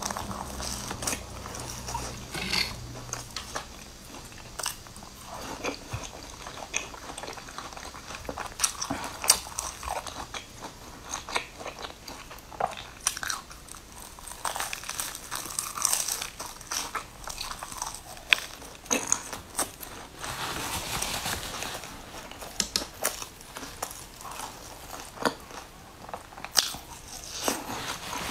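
Close-miked biting and chewing of crusty fried bread pastries: irregular crunches and crackles as the crust breaks in the mouth.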